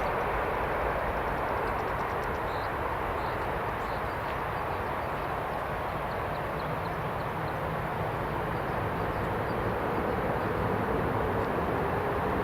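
Steady rumble of the Embraer 195's turbofan engines as the jet climbs away after takeoff.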